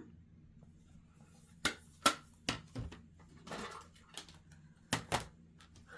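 Makeup products being handled on a desk: about six sharp clicks and taps, with a short rustle about halfway through.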